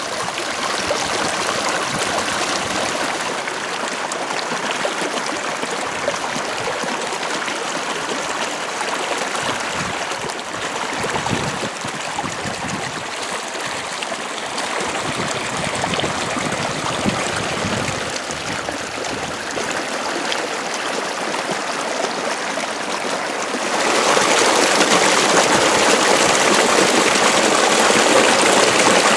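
Water running along an irrigation ditch, a steady rush of flowing water; near the end it steps up suddenly louder and brighter.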